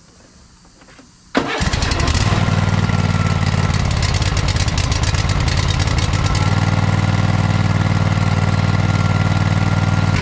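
Lawn mower's small engine starts up suddenly about a second and a half in and then runs steadily at a constant speed.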